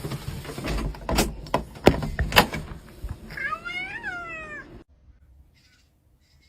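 Several sharp knocks and thumps over a noisy background, then a single drawn-out cat meow about three and a half seconds in that rises and then falls in pitch.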